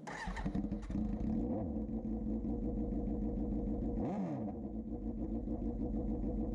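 2005 Suzuki GSX-R750 inline-four idling through an aftermarket Scorpion exhaust, with two short throttle blips: a small one about a second and a half in and a bigger one about four seconds in.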